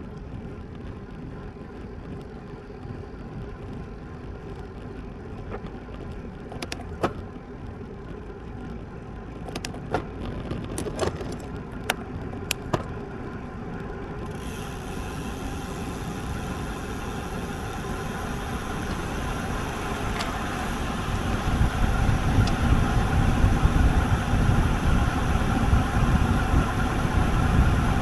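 Wind buffeting the microphone and road-bike tyres running on pavement during a ride, building steadily louder as the bike picks up speed, with a few sharp clicks a third to halfway through.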